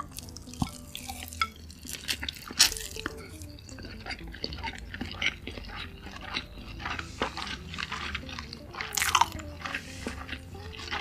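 Close-up eating sounds: wet chewing with sharp mouth clicks and smacks, over soft background music.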